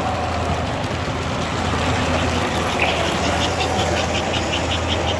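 A model train running on the club layout, with a steady engine-like hum; about three seconds in, a rapid, even ticking starts, about five clicks a second.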